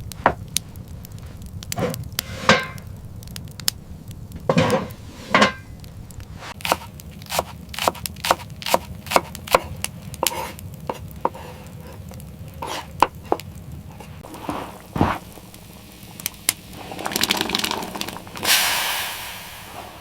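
A string of irregular sharp clicks and knocks, some louder than others, with a brief rush of noise near the end.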